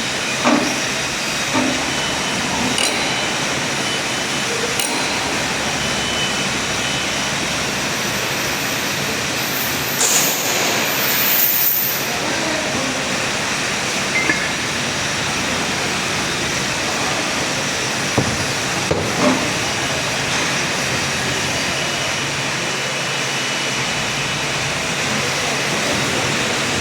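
BFW HF 3.5 milling machine running steadily, with a few light clinks and a brief hiss about ten seconds in.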